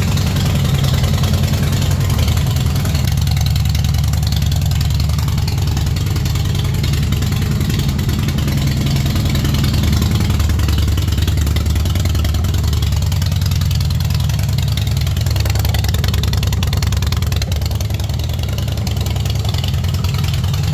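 Harley-Davidson Fat Boy's air-cooled V-twin engine idling steadily, a low, evenly pulsing exhaust note.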